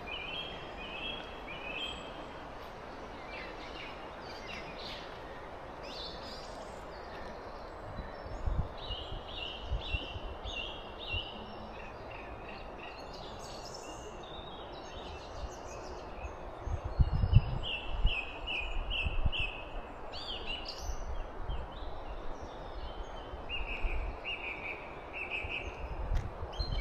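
Wild birds singing in short repeated runs of high chirping notes over a steady outdoor hiss. Low bumps, loudest about two-thirds of the way through, briefly rise above it.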